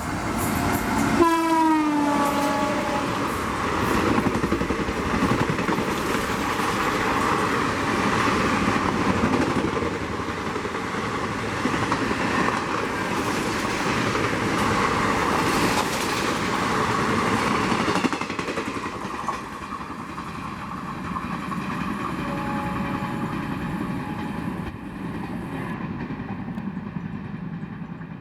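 Indian Railways express train running through a station at speed. Its horn sounds about a second in and drops in pitch as the locomotive goes by. The long rush of the coaches follows, fading away over the last several seconds.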